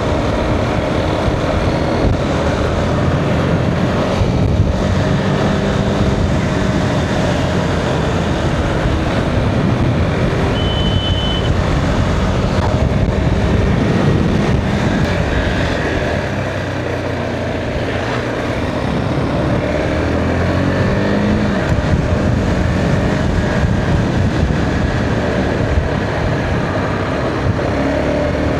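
Motorcycle engine running steadily while riding, with wind rushing over the microphone and the engine pitch rising and falling a little. A brief high beep sounds about ten seconds in.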